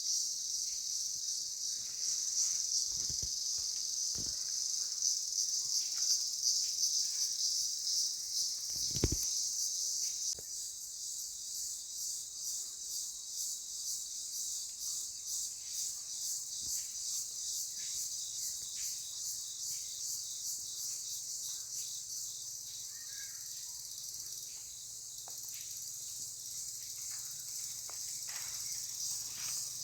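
Insects chirring in a dense high-pitched chorus. About ten seconds in, it changes from an unbroken hiss-like trill to a fast, even pulsing. A few dull low knocks sound in the first ten seconds, the loudest about nine seconds in.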